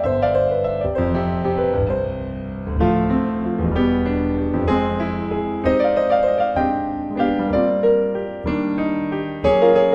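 Background piano music: notes and chords played over a steady bass line.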